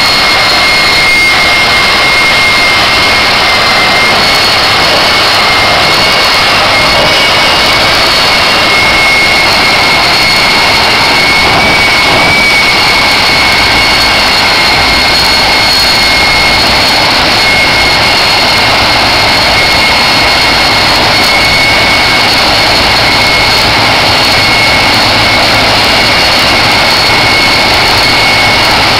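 Jet truck's turbine engine running steadily: a loud rushing noise with a steady high-pitched whine over it that holds level, without spooling up or down.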